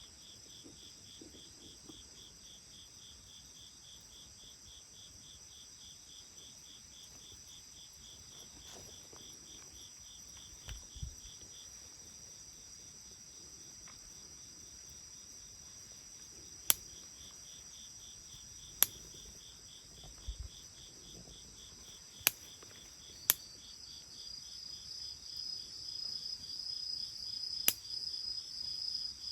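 Insects chirping in a steady high chorus, one with a rapid pulsed chirp, and another trill joining near the end. Burning wood of the bonfire gives five sharp pops, the loudest sounds here.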